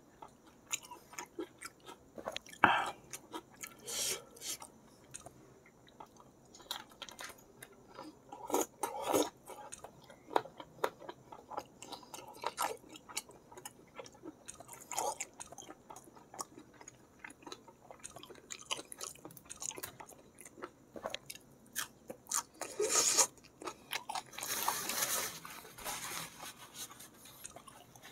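Close-up chewing and biting of spicy balado squid with rice: wet mouth sounds and irregular small clicks, with a few louder crunchy bites around 3, 4, 9 and 23 to 25 seconds in.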